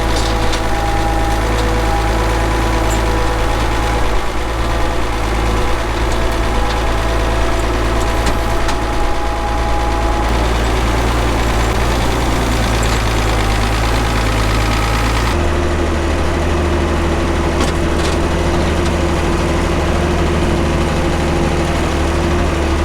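Engine idling steadily, its note shifting abruptly about fifteen seconds in.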